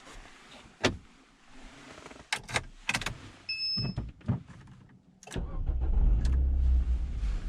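A few sharp clicks and one short electronic beep, then about five seconds in the Dacia Duster's 1.6-litre SCe four-cylinder petrol engine starts and settles into a steady idle.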